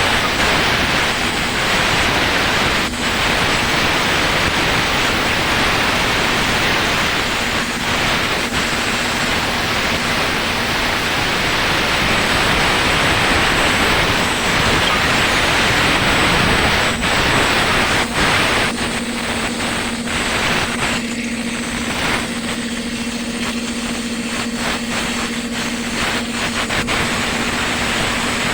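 Sany motor grader's engine running, a loud even rushing noise with a steady hum that comes in for a few seconds near the middle and again through the last third. This engine keeps blowing its gasket.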